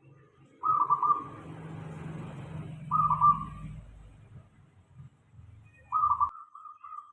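Zebra doves (perkutut) cooing: short bursts of rapid trilled coos, three times a couple of seconds apart, then a drawn-out trill near the end. A low hum sits under the first calls and cuts off suddenly about six seconds in.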